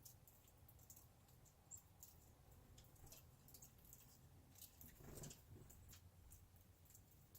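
Faint, scattered high ticks and clicks from small birds, with one short high chip note about two seconds in and a brief rustle about five seconds in.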